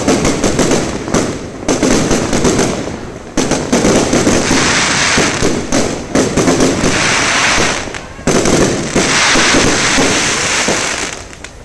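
Aerial fireworks going off in a rapid, continuous volley of bangs with crackling between them, thinning out near the end.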